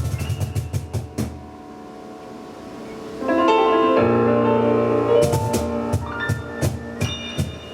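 Piano and percussion playing an up-tempo instrumental live: piano chords with sharp percussion strikes, a short drop-off about a second in, then full piano chords and quick hits return about three seconds in.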